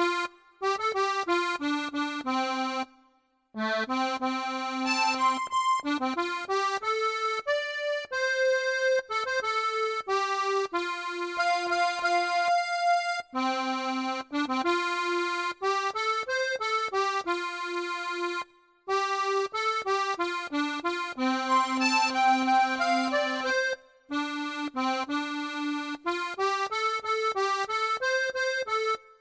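Accordion playing a song melody over a steady bass-and-chord accompaniment, with brief pauses between phrases.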